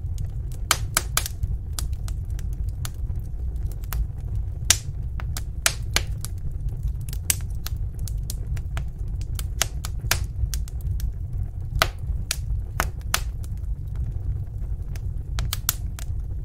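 Wood fire crackling in a fireplace: irregular sharp pops and snaps over a steady low rumble of the flames, with one louder pop about five seconds in.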